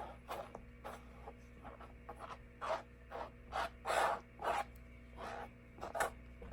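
A paintbrush brushing acrylic paint onto the side of a plastic cup: a quick, uneven run of short strokes, about two a second.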